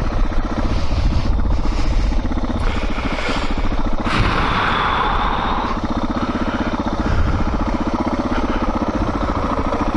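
Suzuki DR650 single-cylinder motorcycle engine idling steadily with an even, rapid beat. A short hiss rises over it about four seconds in and fades a second and a half later.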